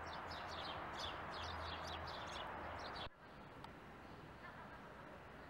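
Small birds chirping in quick repeated bursts over a steady street hum. About three seconds in, the sound cuts to faint, quieter background ambience.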